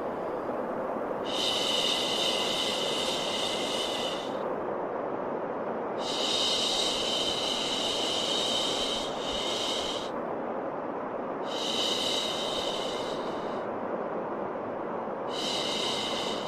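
Steady white noise with a long 'shhh' shushing sound for calming a baby laid over it. The shush comes four times, each lasting two to four seconds, with gaps of a second or two between them.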